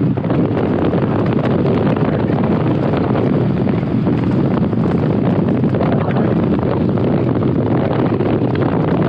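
Steady rush of wind over a helmet-mounted GoPro's microphone on a moving motorcycle.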